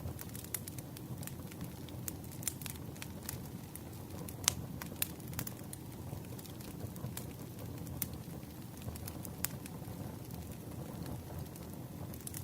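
Wood campfire crackling: a steady low rumble of flames with scattered sharp pops and snaps, the loudest about four and a half seconds in.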